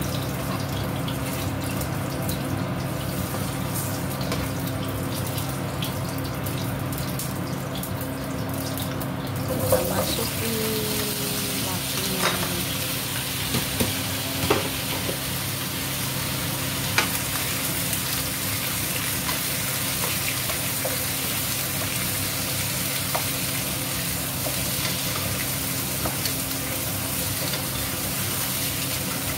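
Ginger sizzling in hot oil in a non-stick wok, over a steady low hum. About ten seconds in, chunks of raw winter melon go into the pan and the frying gets louder and hissier, with a few knocks of the spatula against the pan as it is stirred.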